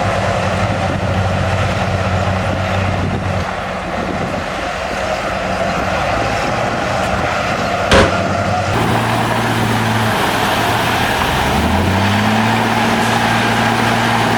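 Heavy diesel earthmoving machinery running steadily, with a higher whine above the engine note. There is one sharp click about eight seconds in, and near the end the engine revs up and holds the higher speed.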